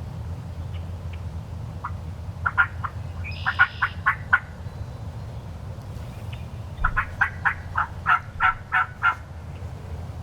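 Wild turkey calling: two runs of about eight to ten short, loud, evenly spaced yelping notes, roughly four or five a second, the second run starting about three seconds after the first ends.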